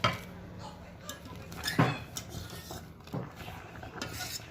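Kitchenware being handled: a few separate clinks and knocks of pots, a bowl or a strainer and utensils, the loudest one a little under two seconds in.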